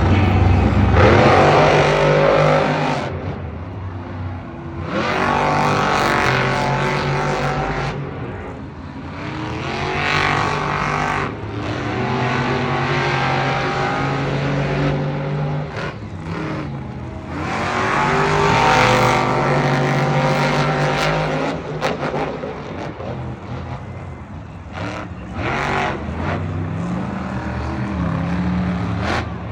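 Monster trucks' supercharged big-block engines racing flat out, revving in repeated loud surges with the pitch climbing and dropping as the trucks accelerate, jump and back off.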